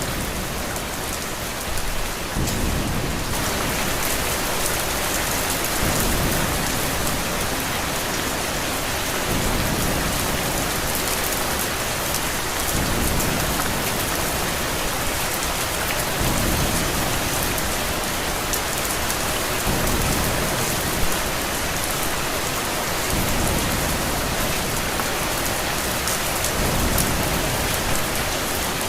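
Steady, heavy rain, growing louder about three seconds in, with low thunder rumbles swelling up about every three and a half seconds.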